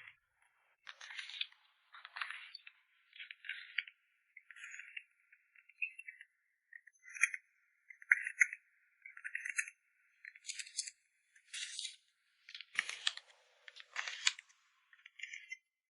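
Handling of photocard packing materials: short rustles and crinkles, roughly one a second with brief silences between, a little fuller twice near the end.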